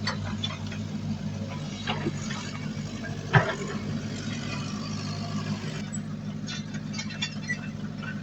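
Heavy earthmoving machine's diesel engine running steadily, with one loud clank a little over three seconds in and scattered lighter clicks and clatter.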